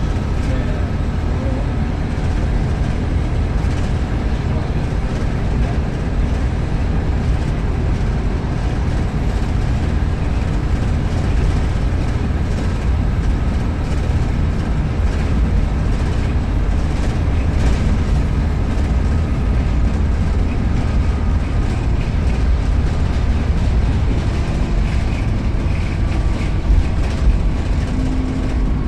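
Volvo B7RLE single-deck bus's diesel engine running under way: a steady, loud low rumble with thin whistling tones, typical of its turbocharger. A lower steady hum comes in near the end.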